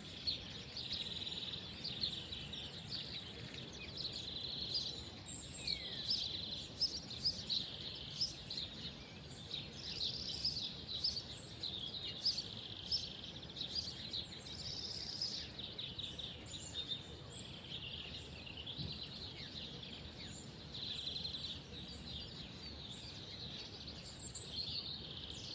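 Several small birds chirping and twittering at once, a steady stream of quick overlapping calls, with one short falling whistle about six seconds in, over a low steady background rumble.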